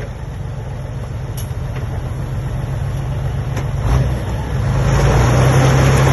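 Heavy diesel engine of a construction machine running steadily. There is a clunk about four seconds in, after which the engine grows louder and holds there.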